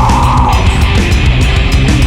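Heavy metal band playing live at full volume, with fast, dense drumming under distorted instruments; a high held note slides down in the first half-second.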